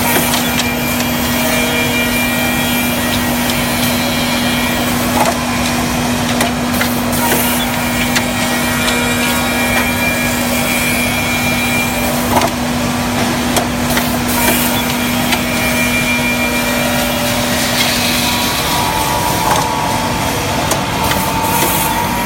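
Bacci CNC double-end tenoner running and machining wood: steady, loud machine noise with scattered knocks, and a constant hum that stops about eighteen seconds in.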